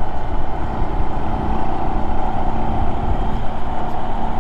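Honda Monkey 125's single-cylinder four-stroke engine running steadily as the motorcycle is ridden.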